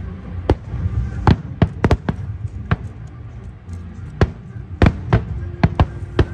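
Aerial fireworks exploding: an irregular run of sharp bangs, about a dozen in six seconds, some coming in quick pairs, over a low continuous rumble.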